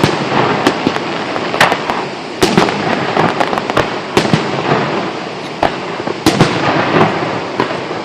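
Fireworks display: aerial shells bursting in an irregular series of sharp bangs, roughly one every second, over a continuous rushing noise.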